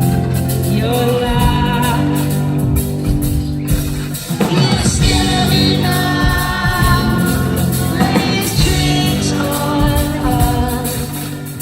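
Live rock band playing with singing, heard through the hall from the crowd, with sustained chords and a short drop about four seconds in before the music swells again.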